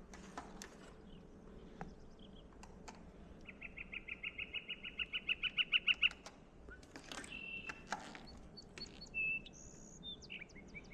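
Recorded bird calls played through an exhibit's speaker. A rapid trill of about eight notes a second grows louder over a couple of seconds and stops. Shorter whistled notes and a few clicks follow.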